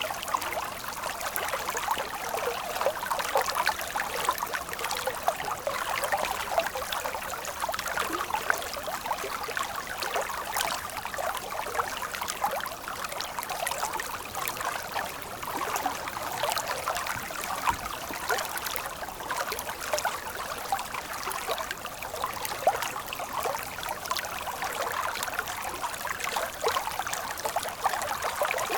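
A stream of water flowing steadily: a dense, even patter of small splashes and trickles, with little deep rumble underneath.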